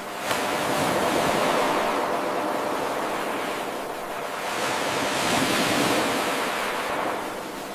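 Ocean surf washing in and out in an 8-second loop: an abrupt rise just after the start, two swells of breaking water, then a fade near the end.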